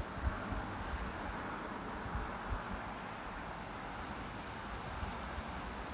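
Steady outdoor rushing noise with wind buffeting the microphone in short low thumps.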